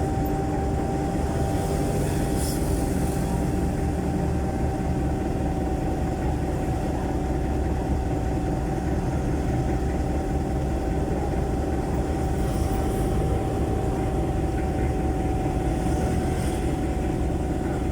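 The jeepney's Isuzu 4BC1 four-cylinder diesel engine running steadily and loudly through its 'ear-breaker' muffler, heard from inside the passenger cabin. A thin, steady whine sits above the low rumble.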